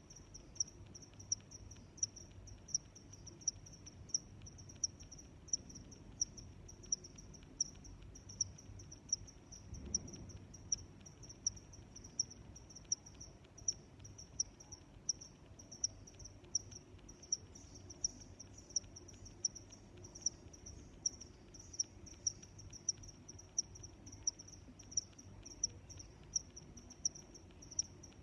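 Crickets chirping in a steady, high-pitched rhythm of about two chirps a second, with fainter chirping behind.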